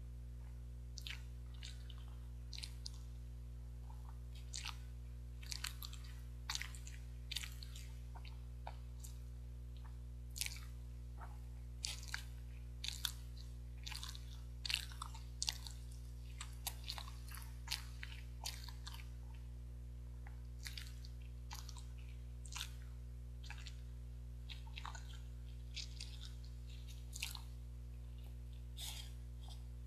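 Close mouth sounds of someone biting and chewing soft, spongy steamed rice cake (jeungpyeon): an irregular stream of small wet clicks and smacks, over a steady low hum.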